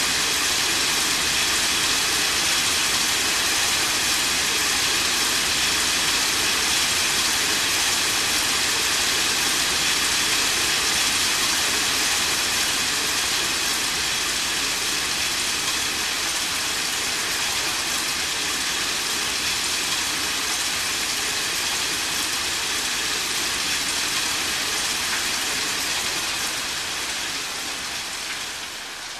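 Heavy rain falling steadily, a dense even hiss, fading somewhat near the end.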